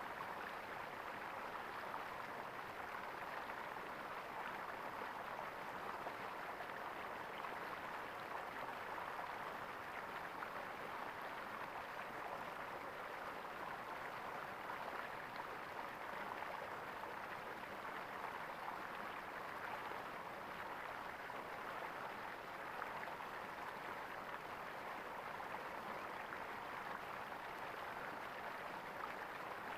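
Flowing water gurgling steadily, an even rush with no pauses or changes.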